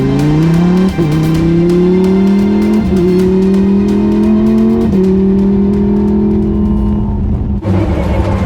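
Lamborghini Super Trofeo Evo race car's V10 accelerating hard, its pitch climbing through the gears with quick upshifts about one, three and five seconds in. Near the end the sound changes abruptly to a rougher, noisier car sound.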